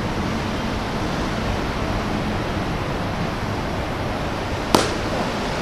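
Steady wind noise buffeting the microphone, with one sharp crack near the end.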